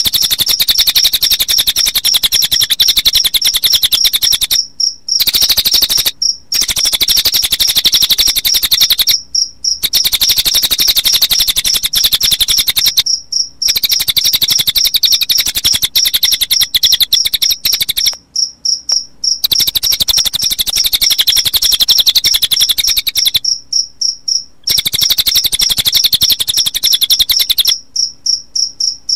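A cililin bird's rapid, high-pitched trill mixed with cricket chirping, looped as a birdsong-training recording. It runs in long stretches of fast, even pulses, broken by brief pauses every few seconds.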